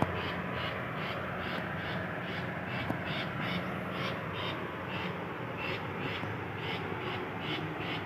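An insect chirping in a steady rhythm, about three high chirps a second, over a low steady hum.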